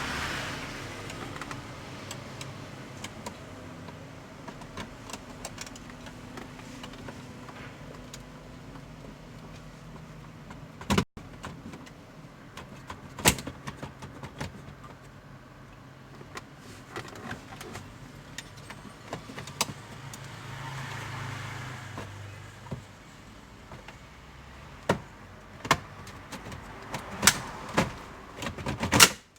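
Scattered clicks and knocks of hand tools and plastic dashboard trim being handled, over a low steady hum. The knocks come closer together near the end.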